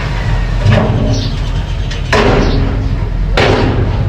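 Mini bulldozer's engine running with a steady low rumble, broken by four short loud, noisy bursts of scraping or clanking from the machine at work.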